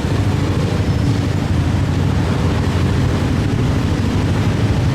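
Steady low rumble of engines running, with no starts or stops.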